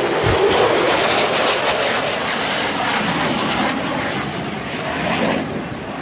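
Aircraft flying past at an airshow with loud, rushing engine noise that eases off near the end.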